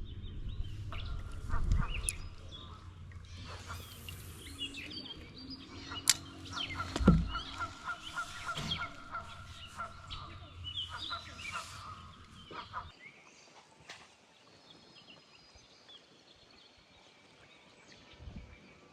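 Birds calling with short chirps and a quick run of repeated notes, over low wind rumble on the microphone that drops away about thirteen seconds in.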